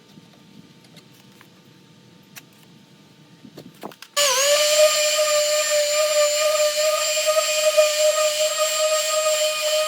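Handheld electric power tool switched on about four seconds in: its motor spins up and settles into a loud, steady high whine. Before that, only faint clicks.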